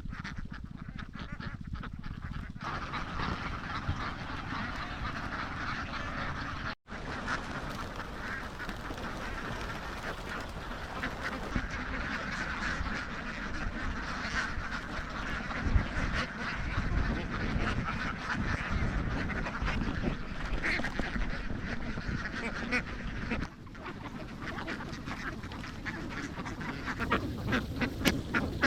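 A large flock of domestic ducks quacking together in a dense, continuous chatter, with a momentary dropout about seven seconds in.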